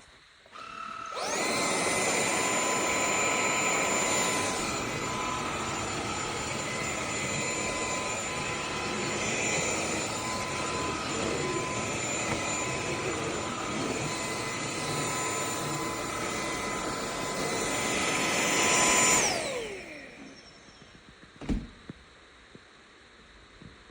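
Cordless stick vacuum cleaner switched on, its motor spinning up to a steady high whine and running for about eighteen seconds. It is then switched off and winds down, the whine falling in pitch. A single sharp click comes shortly after.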